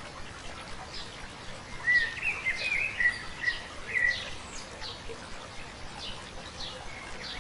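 Small birds chirping over a steady hiss of flowing stream water, with a short run of louder warbling calls about two seconds in.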